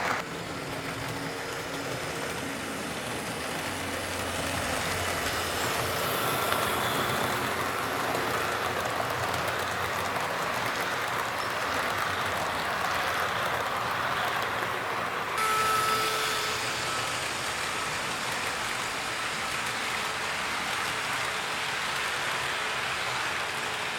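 HO-scale model train, an EF58 electric locomotive model hauling parcel cars, running along the track: a steady rolling noise from wheels on rail with a faint motor whine. The sound changes suddenly about 15 seconds in.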